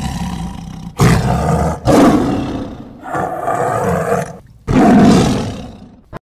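Big cat roaring: a series of harsh roaring calls, about one a second. The calls cut off abruptly near the end.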